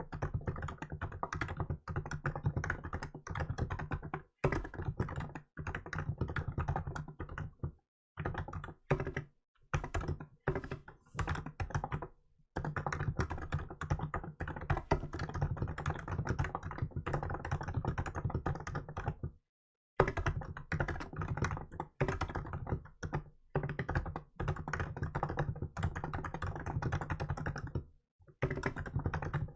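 Steady fast typing on a Hansung GK868B electrostatic capacitive (contactless) keyboard with milk keycaps: dense runs of keystrokes with a few short pauses, the longest about two-thirds of the way through.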